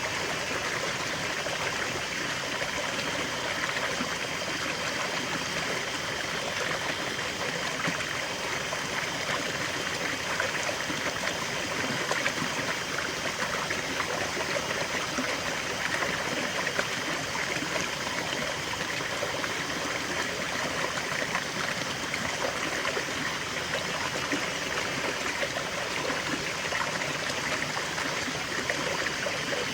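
River water flowing and babbling over stones, a steady continuous rush with fine trickling detail.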